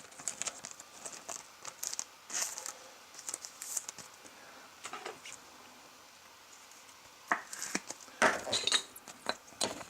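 Trading cards and their packaging being handled: scattered light clicks, slides and rustles, sparse at first and growing into a louder cluster of rustling in the last two seconds.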